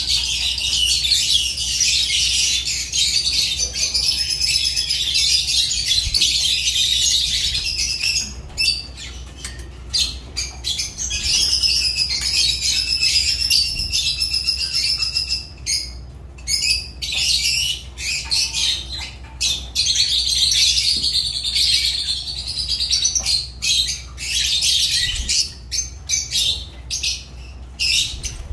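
Lovebirds chattering: a dense stream of high-pitched chirps, unbroken for the first several seconds, then coming in short bursts with brief pauses between them.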